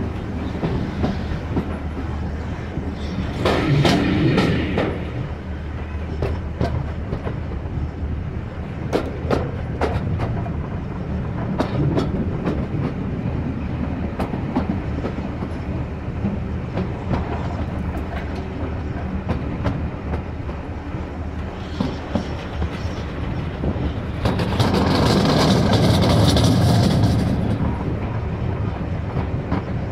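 Passenger railway carriage running along the line, heard from inside by the window: a steady rumble of wheels on rail with scattered clicks from the rail joints. There are two louder spells of rushing noise, one about four seconds in and a longer one from about 24 to 27 seconds.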